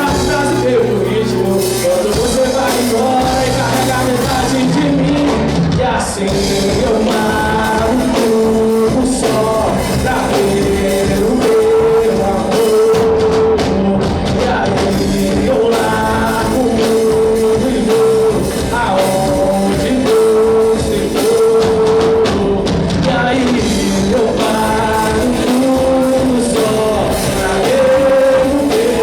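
Rock band playing live: a lead vocal sung over drums and a full band mix.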